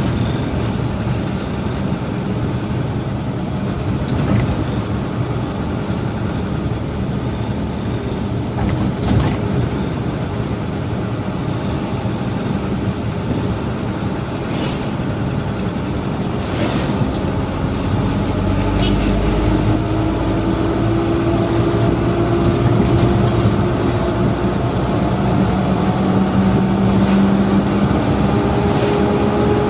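Dump truck's diesel engine running while driving. From about two-thirds of the way through it gets louder and a rising whine climbs in pitch as the truck picks up speed.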